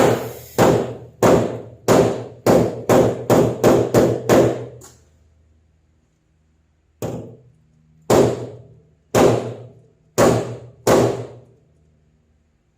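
Hammer striking the steel of a car hood's inner bracing to knock down a high spot, each blow ringing briefly. There are about ten quick blows, a pause of about two seconds, then about six slower ones.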